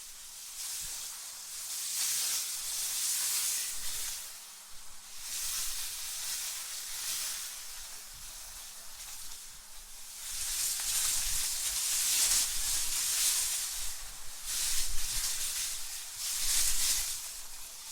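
Wind blowing in gusts: a hissing rush that swells and fades about five times, with a low rumble under the stronger gusts.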